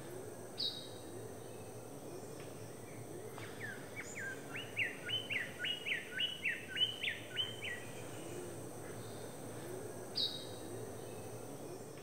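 King bird-of-paradise giving a rapid series of about a dozen short, sharp whistled notes. The series starts about four seconds in and lasts nearly four seconds. A single short high call sounds near the start and again near the end, over a steady high insect drone.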